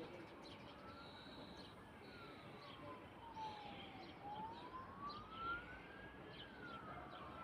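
A faint emergency-vehicle siren wailing slowly up and down, each rise and fall taking about two seconds, with scattered bird chirps.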